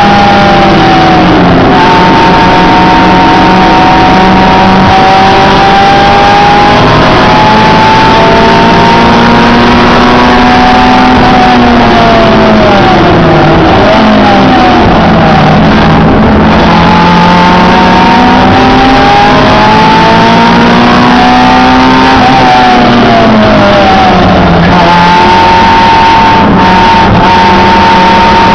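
Honda Integra Type-R race car's four-cylinder engine heard from inside the cabin, run hard on track, its pitch climbing as it accelerates and falling as the revs come down, with two deep drops around the middle and again near the end. Very loud throughout.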